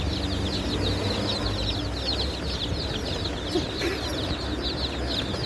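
A flock of small birds chirping together: a dense, unbroken chorus of short, high, falling chirps, over a low rumble.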